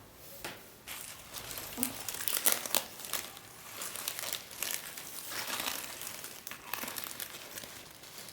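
Medicine packaging being handled and opened: a run of irregular crinkling and rustling, busiest about two to three seconds in.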